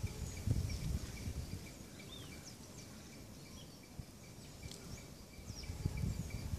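Natural outdoor ambience: short chirping bird calls over a steady, evenly pulsing insect trill, with low rumbling about half a second in and again near the end.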